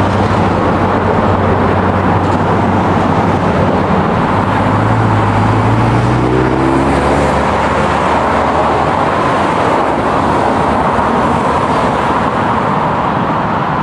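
A motor vehicle's engine running over a steady roar of road or traffic noise. Its pitch rises about halfway through, then the engine fades out, leaving the roar.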